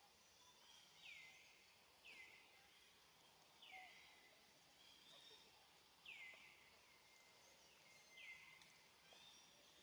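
A bird calling faintly and repeatedly: about five short notes that each drop quickly in pitch, spaced one to two seconds apart, over faint outdoor background noise.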